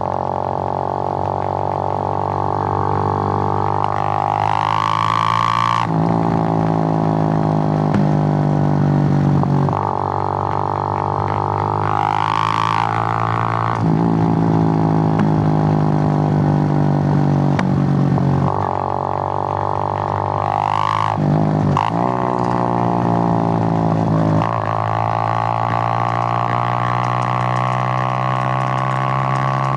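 Suzuki GN125's single-cylinder four-stroke engine running under way, revving up and then dropping back sharply three times.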